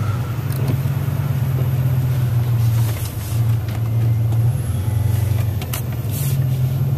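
A truck being driven, its engine and road noise making a steady low hum that dips briefly a couple of times.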